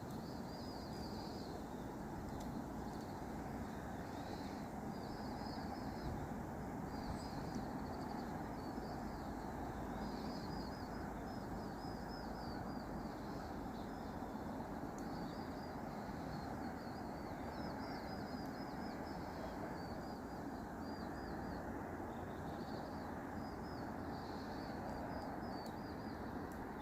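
Small birds chirping in quick runs of short high notes, again and again, over a steady background hiss.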